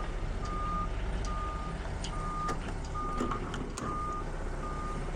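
Vehicle backup alarm beeping at a steady pace, six beeps a little under a second apart, over an engine running low, with a few sharp clicks partway through.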